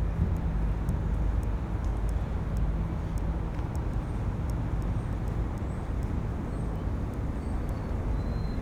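Steady low outdoor rumble of wind and distant city traffic on a waterfront, with faint ticks of footsteps throughout and a few short, thin high chirps near the end.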